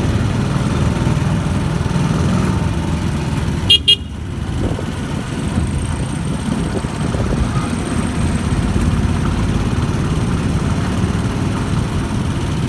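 Steady road-vehicle running noise, with one short, high horn toot about four seconds in.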